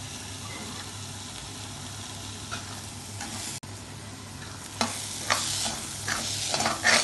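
Onion-tomato masala frying with a steady sizzle in a pan, with powdered spices just added. In the second half a steel spoon stirs and scrapes it around the pan in several short strokes.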